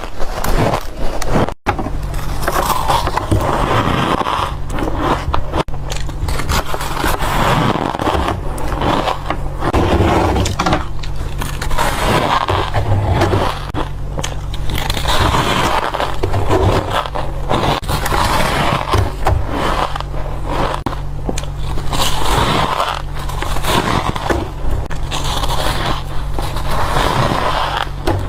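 Close-miked bites into dry, white ice, crunching and crackling in dense irregular bursts with a squeaky edge. A steady low hum runs underneath.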